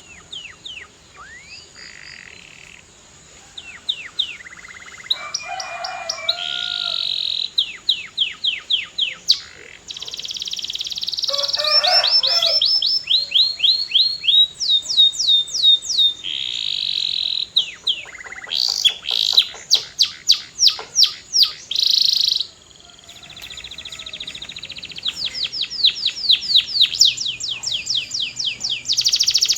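Domestic canary singing a long, varied song: runs of quick downward-sweeping whistled notes repeated several times a second, rapid trills and buzzy rolls, getting louder toward the end.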